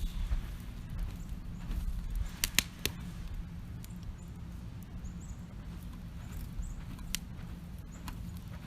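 Wood campfire burning with a steady low rumble and a few sharp crackling pops: three close together a little past two seconds in, then single pops near the end.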